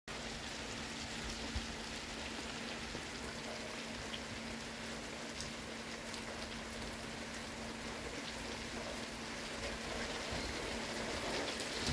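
Steady rain falling, an even hiss with a few sharp drop ticks, growing a little louder near the end.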